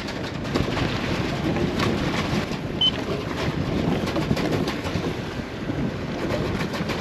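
Wind buffeting the microphone over the rush of sea and waves along a moving sailboat. A single short, high beep sounds about three seconds in.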